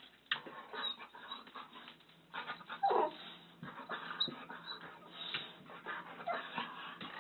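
A dog whimpering and whining, with one longer falling whine about three seconds in and a shorter one later.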